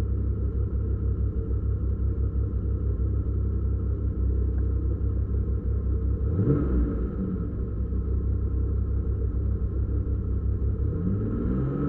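BMW rally car's engine idling, heard from inside the cabin, with one quick blip of the throttle about halfway through. Near the end the revs climb and hold at a higher steady pitch.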